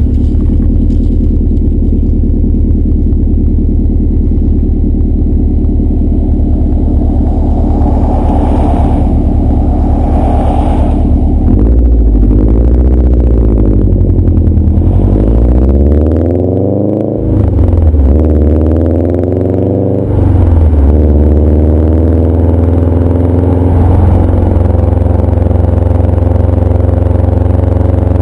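2011 Subaru WRX's turbocharged 2.5-litre flat-four running through a CNT cat-back exhaust: idling steadily, then revved up and down several times around the middle, then settling back to a steady idle.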